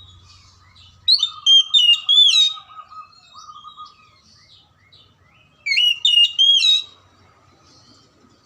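Oriental magpie-robin (kacer) singing: two loud phrases of quick, sweeping whistled notes about four seconds apart, with softer chirps between them. A faint steady tone runs underneath.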